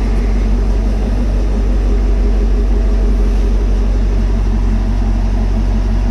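2020 Chevy Camaro SS's 6.2-litre LT1 V8 idling steadily after a cold start, a deep, even exhaust rumble.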